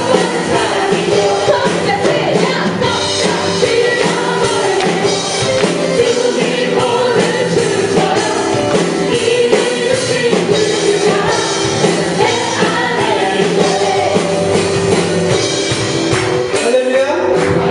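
Live contemporary worship music: a praise band playing while singers sing.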